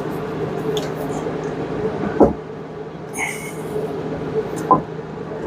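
Two short knocks, one about two seconds in and one near the end, as a heavy cylinder head is worked into place on the engine, over a steady low hum.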